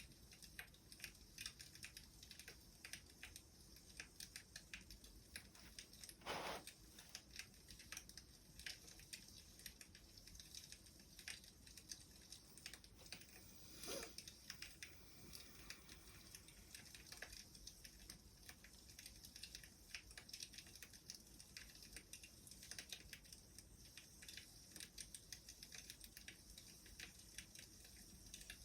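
Faint wood fire crackling: a steady run of small irregular snaps and ticks, with two louder pops about six and fourteen seconds in.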